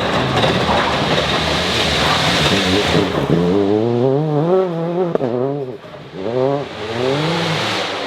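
Rally car at full throttle on a gravel forest stage: a rush of tyre and gravel noise, then the engine revving hard up and down through rapid gear changes. It lifts off sharply about two-thirds of the way through, then revs up again.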